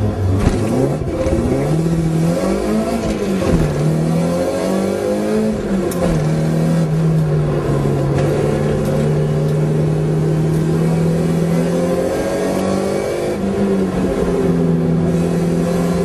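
Toyota AE86's engine heard from inside the cabin under hard acceleration on a race track. The revs climb, drop about three seconds in as at a gear change, climb again, then settle around six seconds in and hold fairly steady through a bend.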